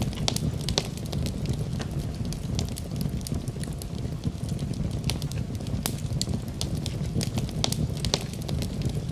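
Wood fire crackling: a steady low rumble of flame with frequent sharp, irregular pops and snaps from the burning wood.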